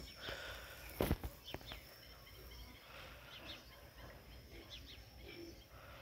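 Faint outdoor ambience with small birds chirping now and then in the background, and a single sharp knock about a second in.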